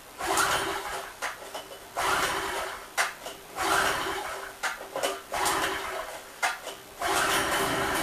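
Recoil pull-starter of a small two-stroke generator pulled again and again, about five pulls, each a rasping whirr of the engine being turned over, with sharp clicks between pulls. The cold engine fails to start; a slightly lean mixture is the likely cause.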